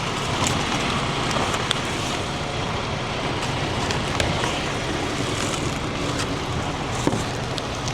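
Steady vehicle engine and road-traffic noise with a low hum, broken by a few light clicks of something being handled.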